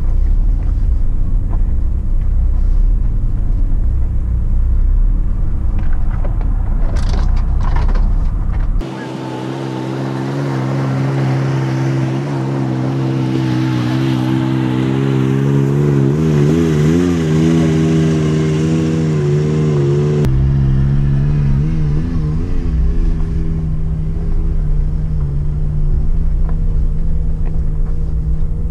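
4x4 engines running on an off-road course: a heavy low rumble heard from inside a vehicle. About nine seconds in it switches to a steadier engine note heard from outside, its pitch wavering as the throttle changes, and the in-cabin rumble returns about twenty seconds in.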